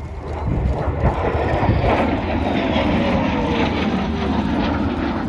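A display aircraft flying past low and loud. Its engine noise builds over the first couple of seconds, then carries a tone that slides down in pitch as it goes by.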